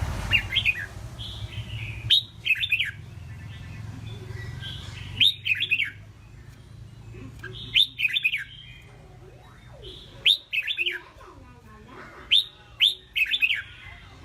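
Red-whiskered bulbul singing: short, loud phrases of quick up-and-down whistled notes, repeated about every two to three seconds.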